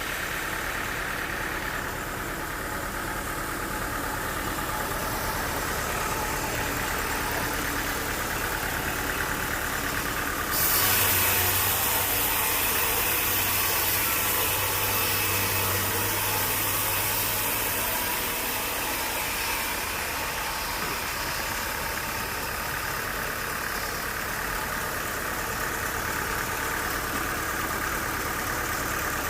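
Sawmill machinery running steadily with an engine hum. About ten seconds in, a loud hiss and a deeper hum start suddenly and die away over several seconds.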